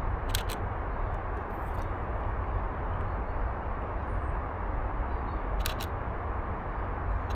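Canon EOS RP camera shutter firing twice, each a quick double click, about five seconds apart, over a steady low rumble.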